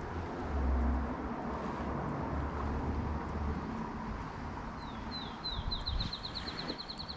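A songbird sings, starting about five seconds in: a few downslurred notes, then a fast, even trill of high notes. Underneath runs a steady rush of flowing creek water, with low rumbles in the first half.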